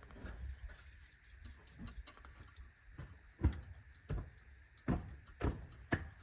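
A run of dull knocks, about five of them spaced roughly half a second to a second apart in the second half, with fainter knocks before.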